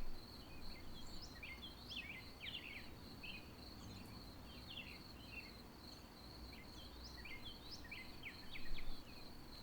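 Faint ambience of small birds chirping in short scattered calls over a steady high insect trill, typical of crickets. A brief low bump comes near the end.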